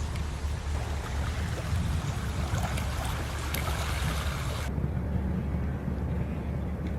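Wind buffeting the microphone outdoors: a steady low rumble under a rushing hiss. The upper hiss cuts off abruptly about two-thirds of the way through, while the rumble carries on.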